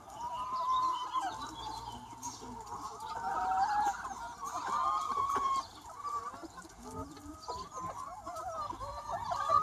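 A large free-range flock of chickens clucking and calling, many hens' short overlapping calls at once, with no single bird standing out.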